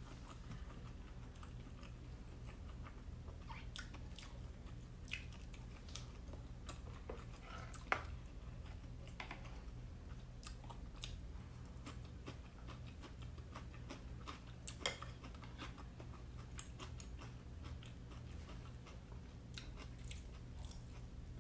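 A person chewing and biting steamed siomai dumplings with rice: soft mouth sounds with scattered small clicks, two sharper ones about 8 and 15 seconds in, over a steady low hum.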